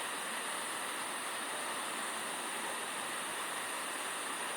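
Steady outdoor background noise: an even hiss with a constant thin high-pitched tone above it.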